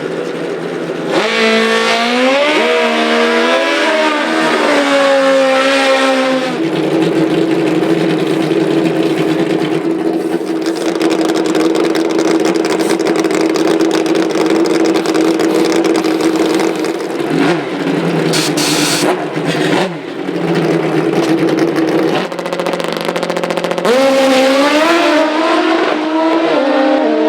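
Pro Nitrous drag-racing motorcycle engines revving, their pitch swinging up and down, then holding a long steady drone for about fifteen seconds, and revving up and down again near the end.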